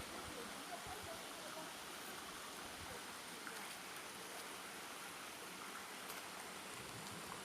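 Water of a stream running, a faint, steady rush.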